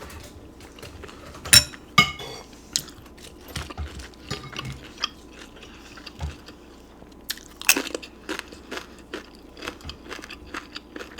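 Close-miked chewing of a mouthful of pozole: wet mouth clicks and smacks throughout, with louder crunchy bites about a second and a half in, at two seconds and near eight seconds.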